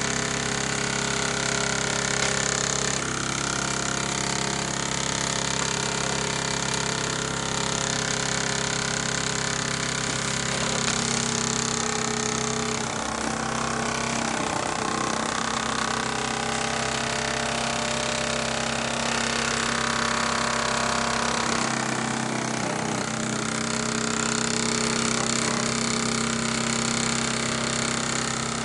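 Midwest 4 model launch steam engine running steadily under steam from its sterno-fired boiler, a continuous even mechanical running sound with a steady hum.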